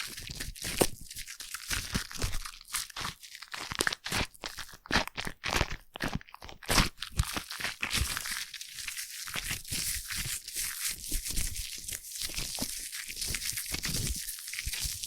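Foam being squished and rubbed close to the microphone, crackling and popping in irregular strokes; about halfway through it settles into a denser, steadier fine crackle.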